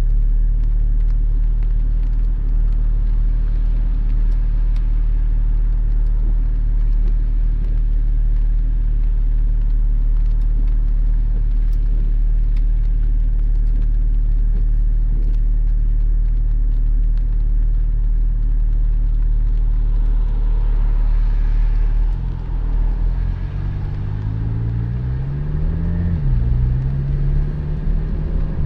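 Porsche 718 Spyder's 4.0-litre flat-six engine idling steadily in stop-and-go traffic. About three-quarters of the way in, it pulls away: the engine note rises, drops at a gear change, and climbs again.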